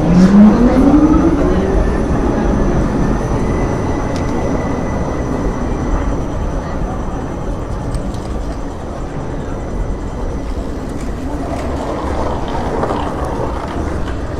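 Electric rail vehicle pulling away: its motor whine rises in pitch over the first couple of seconds, then gives way to a steady rolling rumble.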